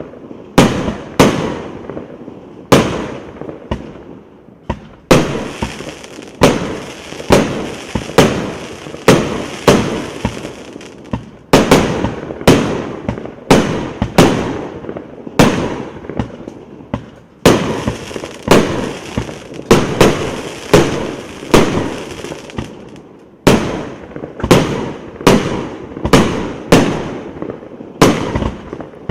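A 178-shot, 1.2-inch firework cake firing shot after shot: a steady run of sharp bangs, more than one a second. In two stretches a hiss fills the gaps between the bangs.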